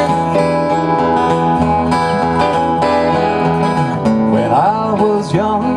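A live acoustic country band plays a song's instrumental intro: acoustic guitar and other plucked strings. A wavering, sliding melody line comes in about four seconds in.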